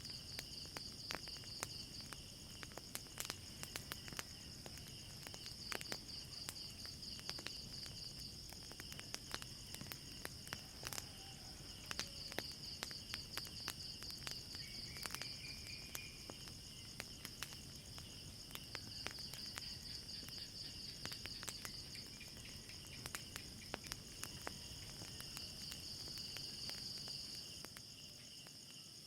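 Crickets chirping in a steady pulsing trill, with a wood fire crackling and popping in irregular sharp clicks.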